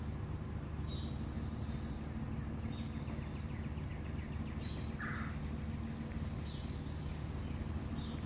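Outdoor ambience: a steady low rumble with a small bird chirping briefly about every two seconds.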